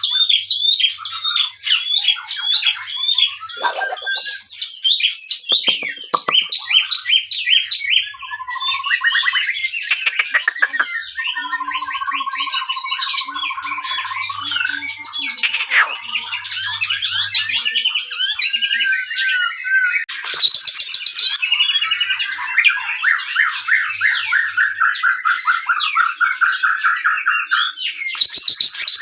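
White-rumped shama (murai batu) singing a fast, varied song of quick repeated whistles and chirps, with a long rattling trill around the middle and another near the end.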